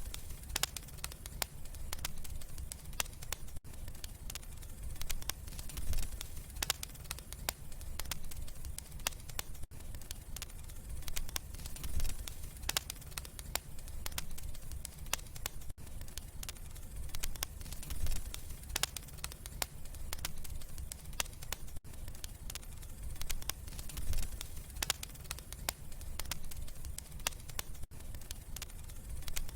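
Wood fire crackling in a fireplace: frequent irregular sharp pops and snaps over a low, steady rumble of the flames.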